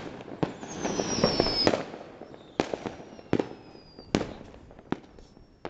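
New Year's Eve fireworks and firecrackers going off around the neighbourhood: a dense run of crackling early on, then single sharp bangs every second or so, with high whistles falling slightly in pitch.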